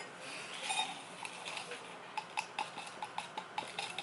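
Light, quick clinks and taps of utensils against dishes, several a second, thickest in the second half.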